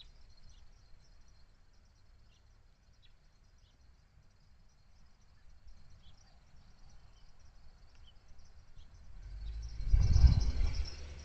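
A steady high insect drone, like crickets, with scattered short bird chirps a few seconds apart, then a louder low rumble about nine seconds in that fades by the end.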